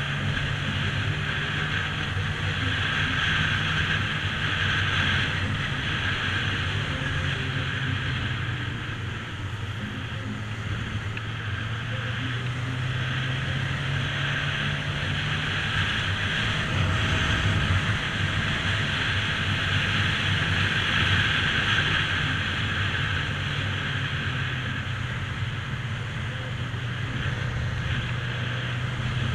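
Motorcycle engine running at a steady cruising pace, its drone dipping a little around the middle and picking up again, with wind rushing over the microphone.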